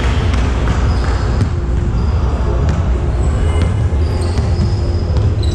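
Basketball game play on a court: a ball bouncing and being dribbled, with scattered short knocks and brief high squeaks, over a steady low rumble.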